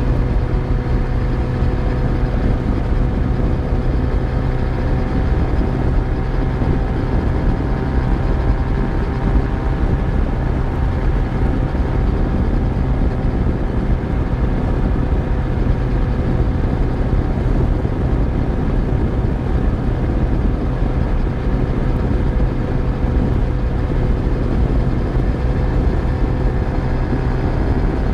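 Yamaha FZ1's inline-four engine running at a steady, unchanging speed while riding, with a low rumble of wind and road noise beneath.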